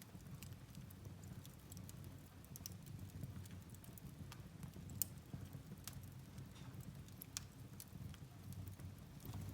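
Firewood burning in a fireplace: irregular sharp crackles and pops over a low steady rumble of the fire, with one louder pop about five seconds in.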